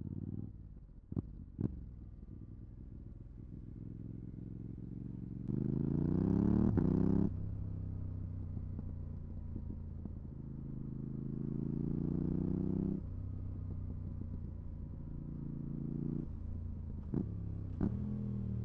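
Yamaha R7's 689 cc parallel-twin engine running through a full MIVV GP Pro exhaust with its dB-killer fitted, rising in revs twice: a loud run about five seconds in that cuts off sharply, then a slower climb that drops away. A few short sharp cracks come near the start and again near the end.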